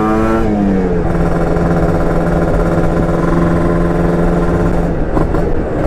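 Two-stroke single-cylinder motorcycle engine of a Yamaha RX-King running at high revs on the move; its note drops in pitch in the first second as the throttle eases, then holds steady, with a brief dip about five seconds in.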